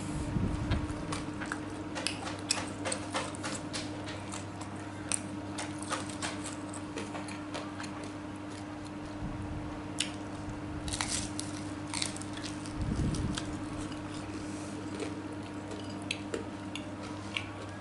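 A person eating spicy tofu close to the microphone: chewing and mouth sounds with many short, sharp clicks, over a steady low hum.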